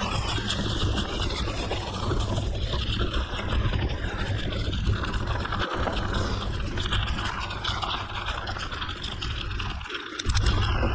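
Mountain bike riding down a gravel forest road: a steady low rumble of wind on the microphone over the scraping of tyres on gravel, dipping briefly about ten seconds in.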